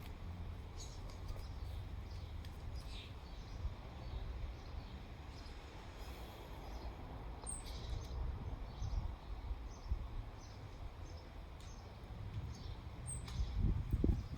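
Scattered short bird chirps over a steady low rumble, with a few low thumps near the end.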